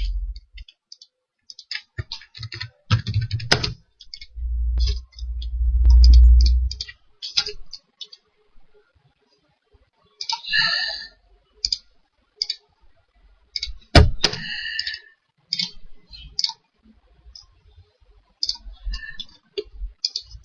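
Irregular clicks of a computer mouse and keyboard as someone works at a computer, with a few low thumps about 3 seconds and 5 to 6 seconds in.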